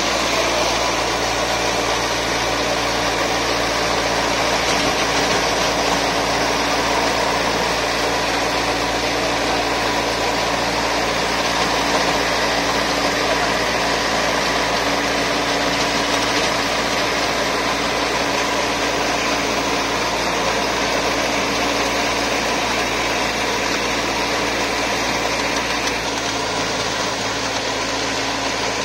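Sonalika 60 hp Tiger tractor's diesel engine running steadily, its note shifting slightly near the end.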